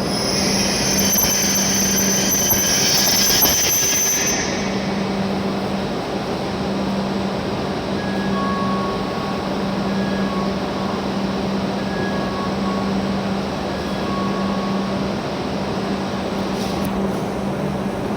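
W7 series Shinkansen train pulling into the platform with a high-pitched brake squeal, which cuts off about four seconds in as the train comes to a stop. After that the standing train gives a steady low hum.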